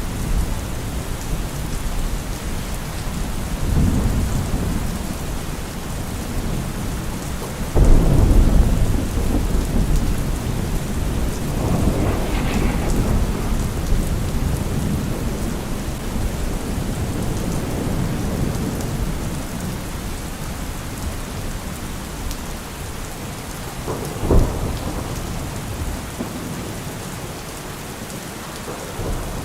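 Steady heavy rain in a thunderstorm. About eight seconds in a sudden thunderclap breaks and rumbles on for several seconds, and a shorter clap comes late on.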